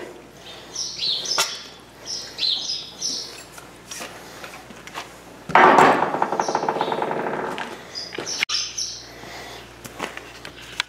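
Small birds chirping repeatedly in the background. Just past halfway, a louder, rough rattling noise lasts about two seconds.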